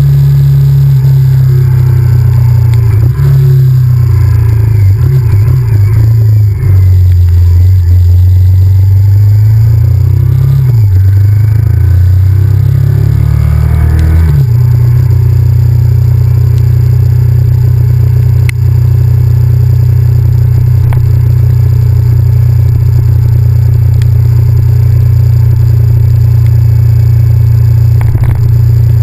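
Honda VTR1000F's 90-degree V-twin engine running as the motorcycle is ridden: the revs rise and fall through the first half, then hold steady from about halfway on.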